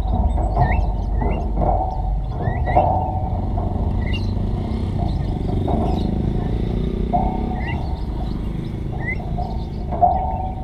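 Small birds chirping: many short, quick chirps with rising hooks, together with repeated lower notes about every second, over a steady low rumble.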